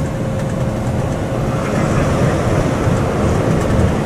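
Steady low rumble and hiss of a running vehicle, with no distinct events.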